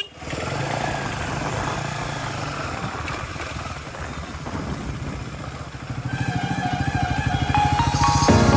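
Motorcycle engine running, with its even firing pulses growing louder from about six seconds in. Music comes in near the end.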